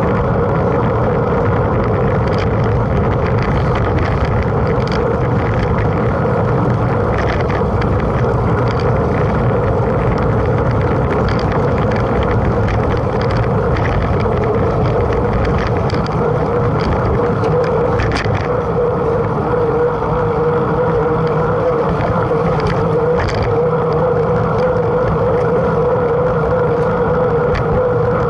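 Steady rumble of a mountain bike being ridden, with tyre and wind noise on the camera and a steady hum. Short rattles and clicks come every few seconds.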